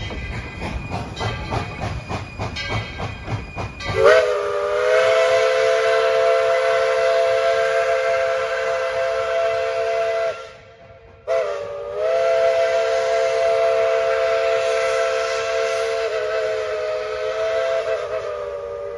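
Steam locomotive's chime whistle blowing two long blasts, several notes together, each sliding up as it opens. Before the whistle comes a rhythmic low pulsing.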